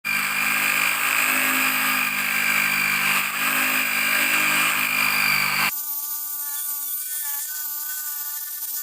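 Electric drill with a sanding attachment abrading leftover paint: a steady motor whine over loud scraping noise. It cuts off abruptly about six seconds in, leaving a quieter sound of a few steady tones.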